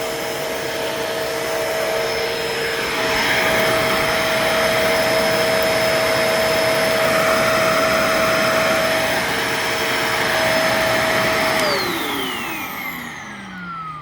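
Bissell Pet Hair Eraser Turbo upright vacuum running steadily with a motor whine. Near the end it is switched off, and the whine falls away as the motor spins down.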